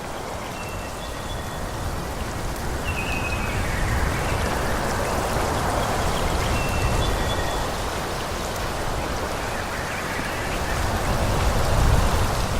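Wind blowing through forest trees, rising and falling in gusts: it swells in the middle and peaks near the end. Several brief, high bird chirps come over it.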